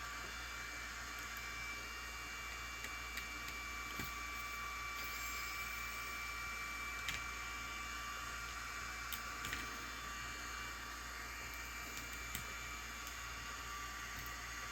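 A handful of small, sharp clicks and taps from tools and parts being handled during phone disassembly, scattered about a second or more apart, the loudest about halfway through. Under them runs a steady hiss with a faint high whine.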